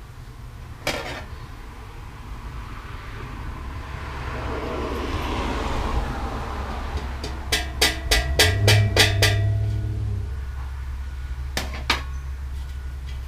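Light hammer taps on a brass snare drum shell, knocking out a small dent: one knock, then a quick run of about eight ringing taps, then two more near the end.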